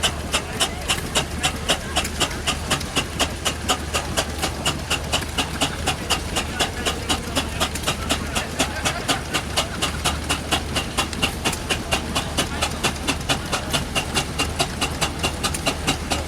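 Steam engine running with an even, rapid beat of short sharp strokes, about three a second, over a steady low hum.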